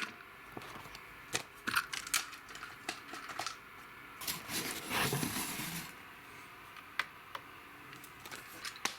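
Handling noises: scattered small clicks and knocks, with a longer rustling, scraping stretch about four to six seconds in.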